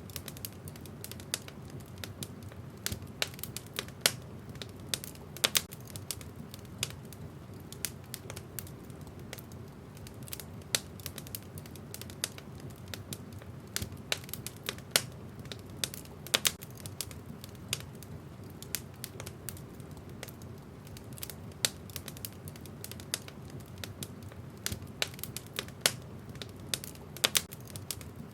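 Wood fire in a fireplace burning steadily, with irregular sharp crackles and pops from the burning logs over a low steady rumble of the flames.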